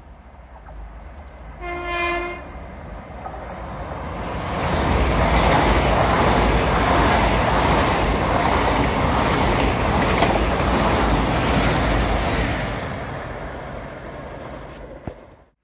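A train sounds one short horn blast about two seconds in, then passes through at speed: its noise builds, stays loud for several seconds and fades away, and the sound cuts off abruptly at the very end.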